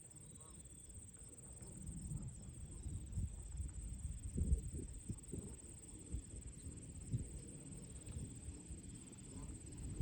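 Crickets trilling steadily on one high note, with low gusty wind rumble that swells and buffets a few seconds in.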